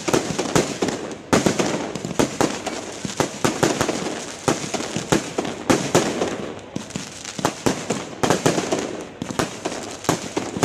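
Aerial fireworks bursting overhead: a dense, continuous crackle of many rapid small pops, with louder bursts about a second in, near the middle and later on.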